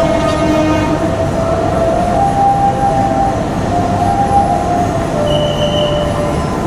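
Train moving through the station with a steady rumble of wheels on rail. Squealing tones from the wheels shift in pitch throughout, with a brief higher squeal about five seconds in.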